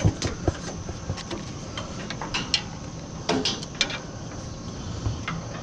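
Irregular knocks and clanks of metal scrap being shifted and set down in a pickup truck bed, the loudest right at the start and a quick cluster a little past the middle.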